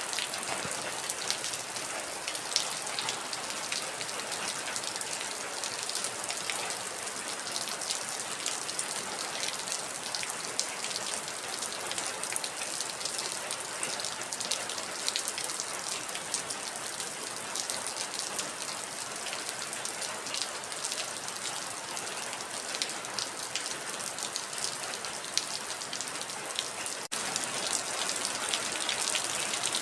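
Heavy rain falling steadily: a dense hiss packed with the pattering clicks of individual drops. It dips for an instant near the end.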